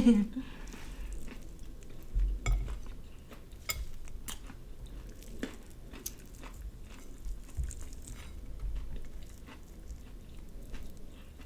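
Chewing and biting into a fried chicken and donut sandwich, with scattered small clicks and taps from handling the food and a couple of soft low thuds.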